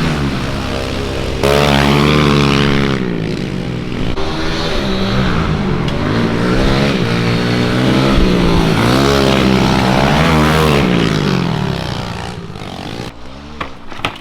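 Small four-stroke single of a Kawasaki KLX110 pit bike being ridden around a dirt track, the engine note repeatedly rising and falling as the rider opens and shuts the throttle and shifts. It gets louder about a second and a half in and fades near the end as the bike moves away.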